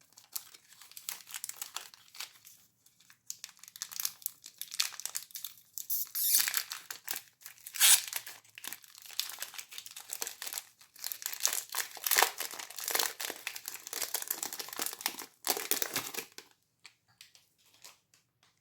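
Candy wrappers being crinkled and torn open, a dense crackling with loud peaks about six and eight seconds in. It stops about sixteen seconds in, leaving only a few small clicks.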